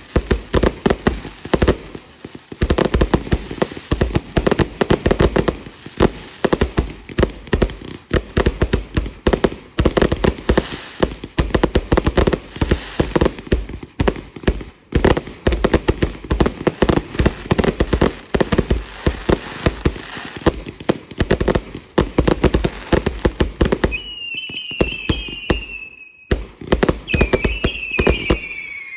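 Consumer fireworks going off in rapid, nearly continuous bangs and crackles. Several high whistles join in near the end.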